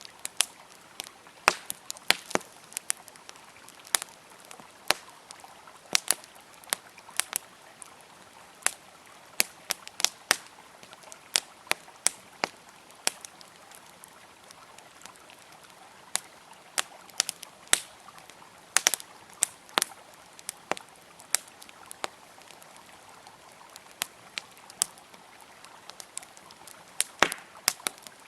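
Campfire crackling: irregular sharp pops and snaps of burning wood, one to three a second, over the even rush of a flowing river.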